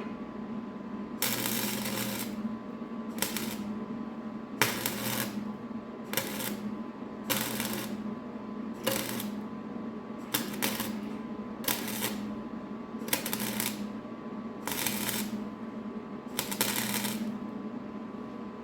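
Arc welder laying a series of short tack or stitch welds on a tractor exhaust pipe: about a dozen bursts of arc noise, each under a second, with short pauses between, over a steady low hum.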